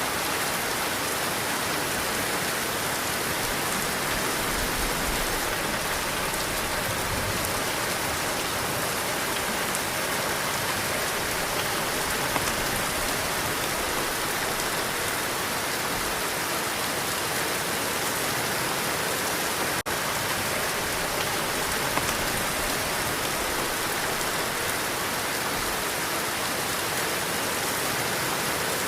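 Heavy rain falling in a steady, dense hiss, with one split-second dropout about two-thirds of the way through.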